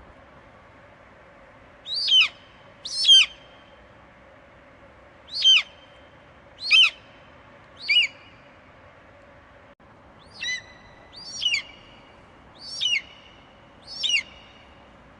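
Eagle screeching: nine short, high calls, each sliding sharply down in pitch, spaced one to two seconds apart.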